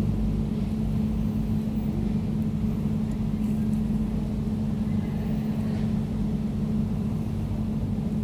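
Air conditioner running steadily: an even, low hum with a constant droning tone and no change in speed.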